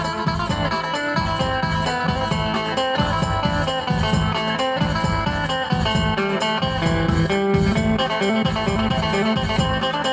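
Isan phin (plucked Thai lute) music, a twangy plucked melody over a steady bass beat.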